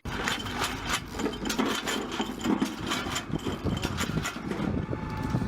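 A steady engine rumble overlaid with many quick metallic clicks and knocks.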